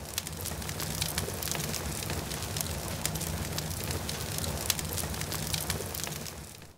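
Virtual bonfire sound effect: a steady rush of flames with many sharp crackles over a low rumble, swelling over the first second and dying away quickly at the end.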